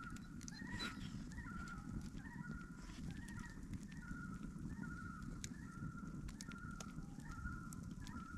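Birds calling in a steady run of short, wavering notes, about two a second, over a low rumbling background with scattered sharp clicks.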